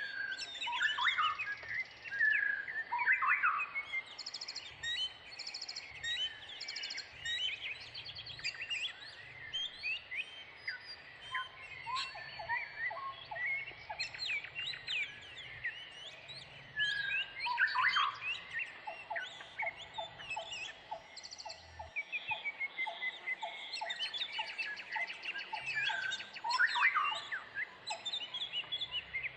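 Several birds singing and calling at once: a dense mix of chirps and gliding whistles, with runs of rapid repeated notes and fast high trills.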